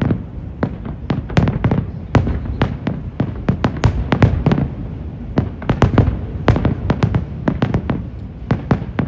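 Fireworks going off in a rapid, irregular string of sharp bangs, several a second, over a continuous low rumble.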